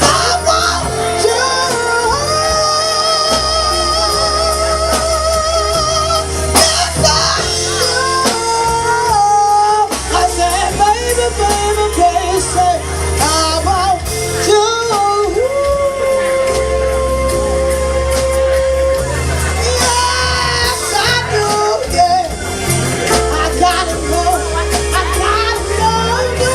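Live band music with a heavy bass line and a singer, who holds long notes with vibrato, once near the start and again around the middle.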